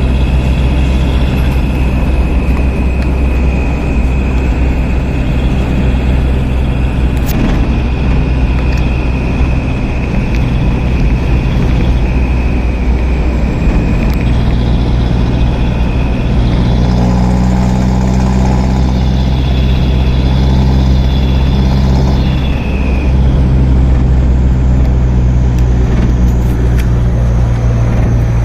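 Heavy truck engines running steadily at low revs, with a second engine note rising about seventeen seconds in and dropping away around twenty-three seconds.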